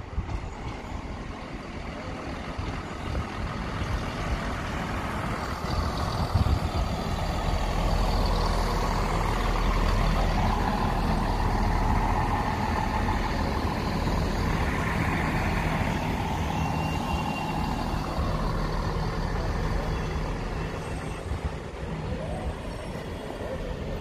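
Northern diesel multiple unit passing: its underfloor diesel engines run steadily under the rumble of wheels on rail. The sound builds, is loudest as the train goes by mid-way through, then eases off as it moves away.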